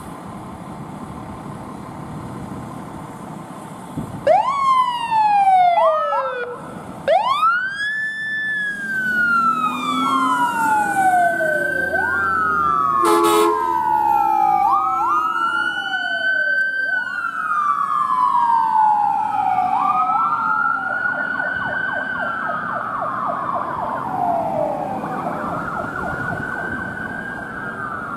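Emergency vehicle sirens wailing, starting about four seconds in with quick upward sweeps, then slow rising and falling cycles, two sirens overlapping. A short horn blast sounds about halfway through, over engine and traffic noise.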